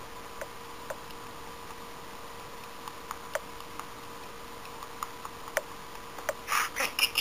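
Scattered single sharp clicks over a faint steady hum, then a budgerigar starts chirping and chattering about six and a half seconds in.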